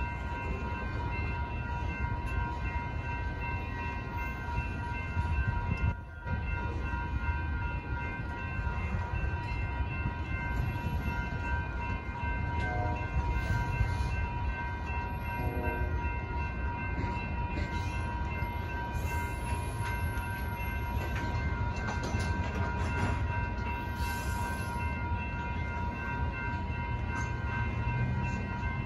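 Freight train cars rolling steadily through a grade crossing, a continuous rumble of steel wheels on rail. The crossing's warning bells ring without pause over it as a steady high ringing.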